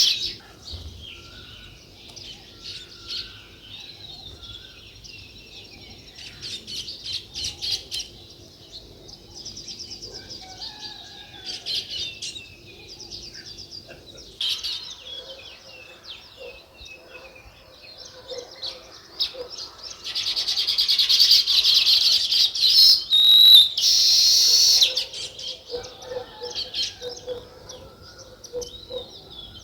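House sparrows chirping: scattered short chirps throughout, swelling into a loud, dense bout of chirping about twenty seconds in that lasts a few seconds.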